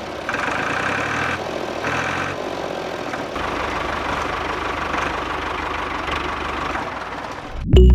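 Mini tractor engine running, its sound swelling and fading about once a second for the first few seconds, then running more evenly.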